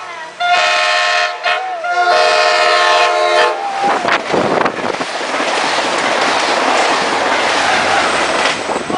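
An Amtrak passenger train sounds its multi-note horn in two long blasts as it approaches at speed. From about three and a half seconds in, the train rushes past close by with a loud, steady roar of wheels on rail.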